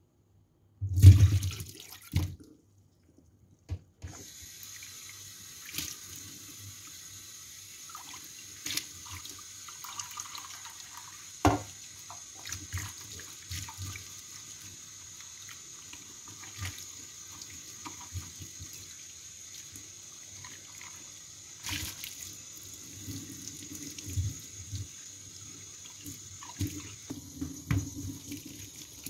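A water tap running steadily into a sink, turned on about four seconds in, with occasional knocks as things are handled in the sink. A loud low thud about a second in comes before the tap.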